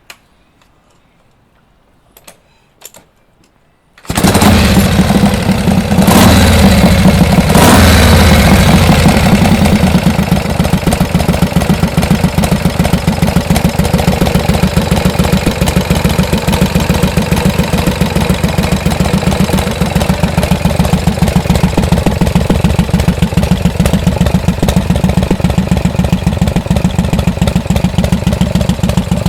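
Freshly overhauled Harley-Davidson Shovelhead V-twin engine catching and starting about four seconds in after a few faint clicks, revved briefly twice, then running steadily with a fast even beat.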